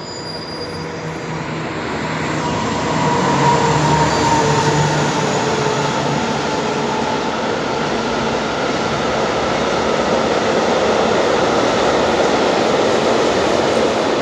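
A train of yellow track-maintenance machines rolling past on the railway line, a steady rumble and rattle of wheels on rails. It builds over the first few seconds and then stays loud, with a few faint held tones in it.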